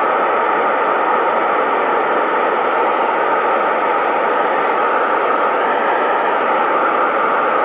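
Burner of a metal-melting furnace running at full fire, a steady rushing hiss with a faint steady tone in it.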